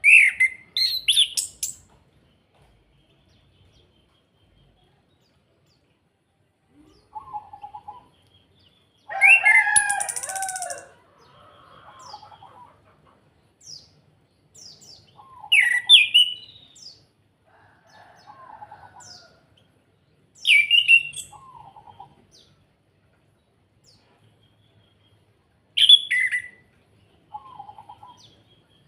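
Orange-headed thrush (anis kembang) singing in loud, separate phrases of quick rising-and-falling notes, about five phrases several seconds apart, with softer, lower warbling notes between them.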